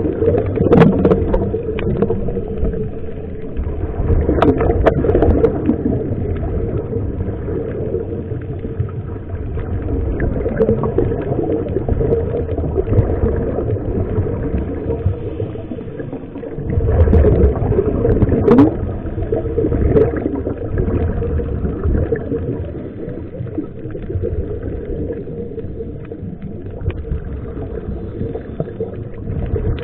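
Muffled rumble of water and a boat's motor, with a steady hum and some gurgling and swells of louder splashing.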